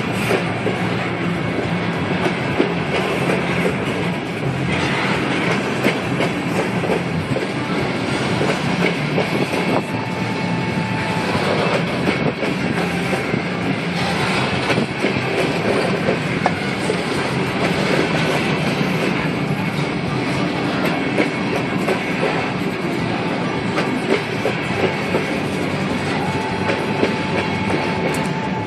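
Norfolk Southern coal train's cars rolling past, a steady clatter of wheels over the rails, with a short thin squeal twice.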